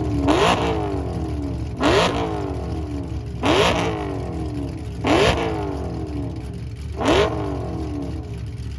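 A car engine revved in short blips, five times, about every one and a half to two seconds. Each blip rises quickly in pitch and falls back to a steady idle.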